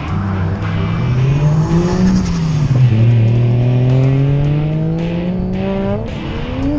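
Car engine on a race track, revving, its pitch dropping about two seconds in as it shifts or lifts, then climbing steadily as it accelerates hard out of the corner.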